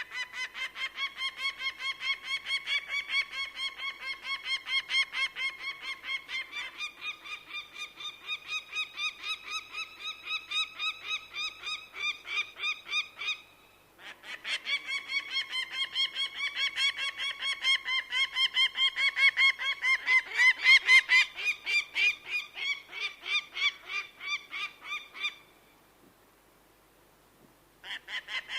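A bird of prey calling in a fast series of repeated pitched notes, about four a second. It calls in two long runs with a brief break between them, goes quiet for a couple of seconds, and starts again near the end.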